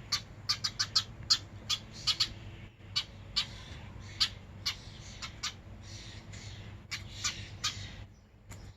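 A small wild bird giving short, sharp calls, about fifteen in irregular succession.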